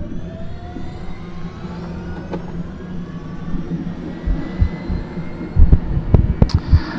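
Airbus H125 helicopter's turbine winding up: a whine that rises and levels off over a steady low hum. A few dull thumps come near the end.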